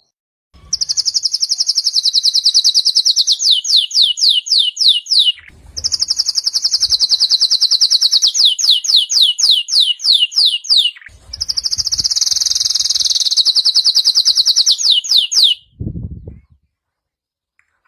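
Domestic canary singing three long song phrases. Each is a high, rapid trill that breaks into a run of quick downward-sweeping notes, with short pauses between phrases. A brief low bump sounds near the end.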